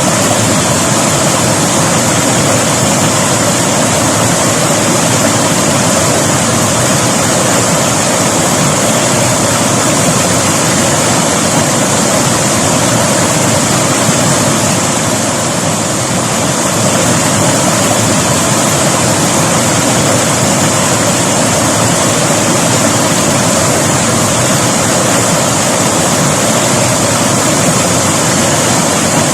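River water rushing and splashing in a loud, steady flow.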